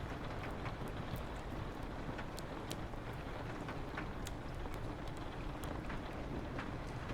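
Wood fire crackling, with irregular sharp pops, over a steady hiss of rain on a window and a low wind rumble.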